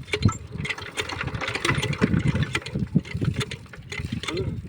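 Small 5 hp diesel water-pump engine turning over and chugging unevenly as it is hand-cranked to start, with irregular knocks.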